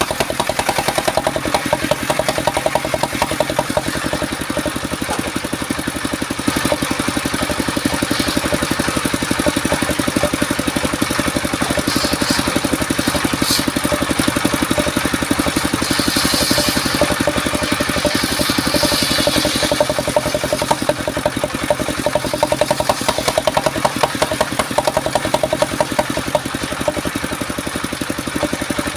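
Engine of a mobile circular sawmill running steadily with a fast, even firing beat, with a few short hissing bursts a little before and after the middle.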